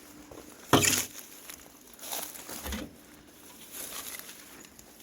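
Footsteps rustling and crunching through dry weeds and briars, with one loud crunch about a second in.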